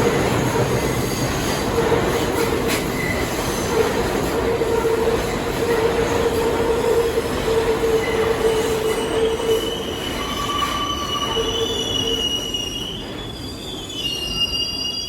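New York City subway train on the 4/5/6 line running on the rails, with a steady rumble and a held hum. Over roughly the last half of it, the steel wheels squeal with several high tones on the rail.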